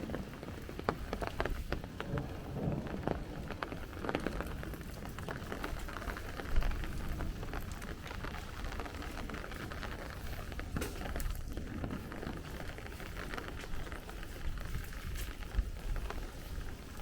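Heavy rain falling and pattering on nearby surfaces, with gusty wind. There is a brief louder knock about six and a half seconds in.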